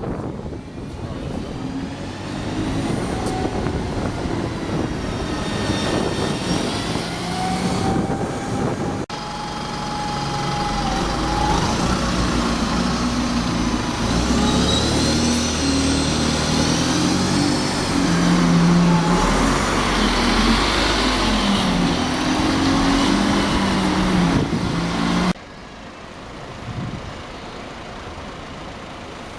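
Diesel buses pulling away, engines rising in pitch as they accelerate, with a high whine gliding up and down. Three separate shots are cut together, with sudden changes about nine seconds in and near the end.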